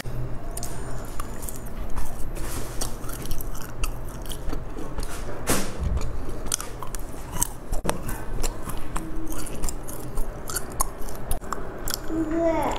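A person biting and chewing food, a dense run of short clicks throughout.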